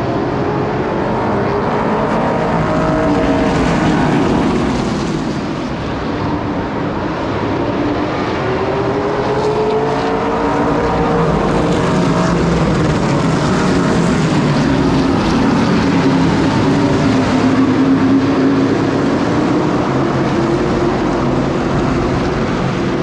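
Race car engines running laps in a heat race, with several engine notes rising and falling in pitch as the cars pass and go through the corners.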